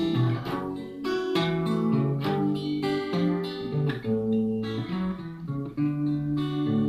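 Guitar playing an instrumental passage of a bard-style song, single notes plucked one after another and left ringing, with no singing.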